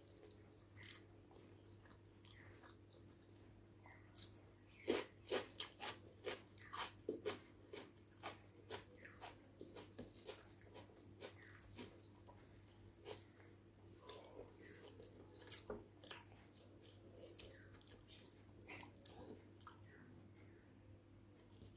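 Close-miked chewing and biting of mouthfuls of egg biryani, made up of many sharp, moist clicks and smacks. They come thickest about five seconds in and thin out to scattered clicks later, over a faint steady low hum.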